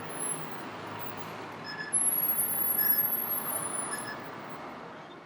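A turning truck's left-turn warning speaker beeping three times, about a second apart, over the noise of its engine and the traffic. A thin high whine sounds with the louder middle part. The beeps warn pedestrians that the truck is turning left.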